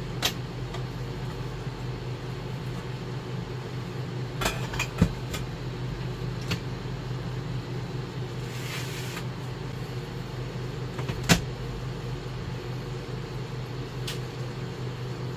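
Steady low mechanical hum of a running machine, with a few sharp clicks and knocks scattered through, the loudest about five seconds in and eleven seconds in, and a brief hiss near nine seconds.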